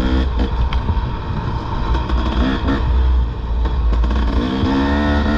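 Dirt bike engine running under load on a rough trail, revving up with its pitch rising twice. A heavy low rumble runs underneath, with a few short knocks.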